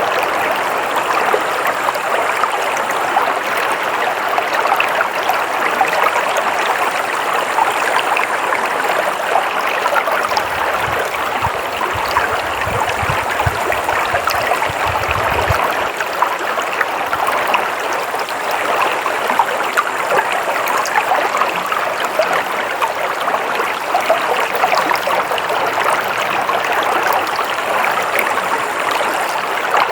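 Stream water flowing steadily, a continuous rushing hiss. A low rumble comes in about ten seconds in and lasts some five seconds.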